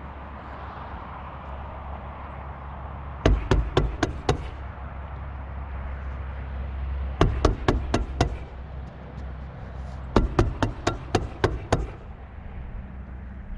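Hammer blows in three quick runs of about five to eight strikes each, a few seconds apart, as roofing felt is nailed down.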